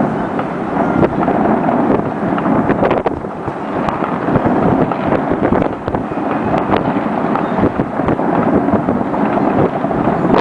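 Dense barrage of fireworks and firecrackers going off together, countless overlapping bangs and cracks merging into a continuous loud crackling rumble.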